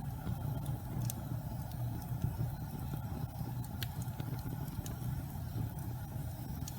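Wood fire burning in a fireplace: a steady low roar with occasional sharp crackles, one about a second in and another near four seconds in.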